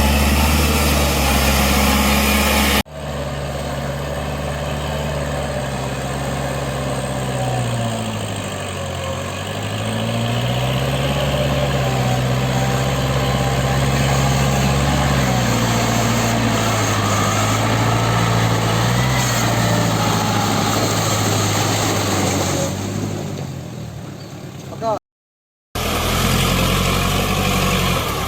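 Kubota L5018 tractor's diesel engine running under load; its pitch dips and recovers several times. The sound changes abruptly about three seconds in and drops out for a moment near the end.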